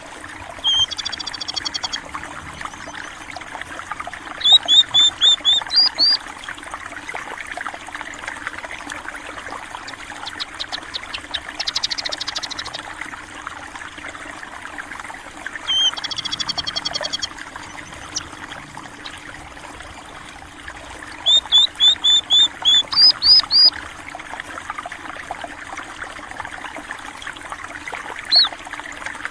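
Steady rush of flowing water, with a small songbird calling over it: a buzzy call near the start and again about halfway, runs of quick repeated chirps twice, and a fast ticking series in between.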